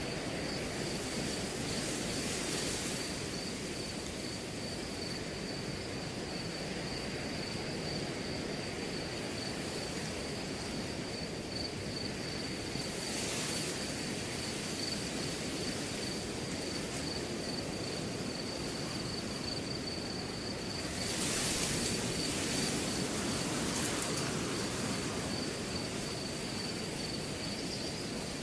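Wind blowing through a grass field, swelling in gusts three times, with a steady high cricket trill running underneath.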